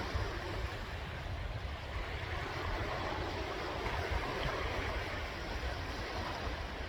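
Sea waves washing in, a steady rush of surf with a low rumble underneath.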